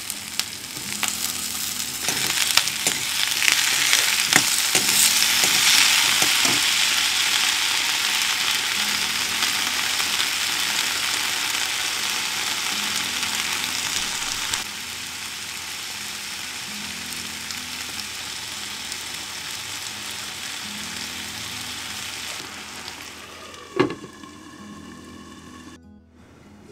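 Diced onions and potato cubes sizzling in hot oil in a kadai over a gas flame, with a spatula stirring them now and then. The sizzle dies down near the end, just before a single ringing clank.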